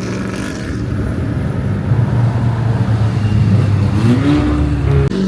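Car engine running at low revs in slow traffic, a steady low drone, with a rev that rises and levels off about four seconds in.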